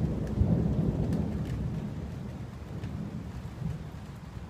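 Rolling thunder: a low rumble that is loudest at the start and fades away over a few seconds, with rain falling.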